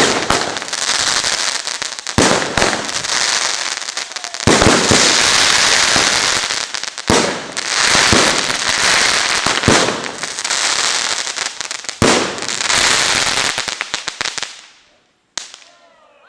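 Fireworks display: a dense, rapid crackle of many small reports, with a heavy bang every two to three seconds. It dies away near the end, and one more sharp bang follows.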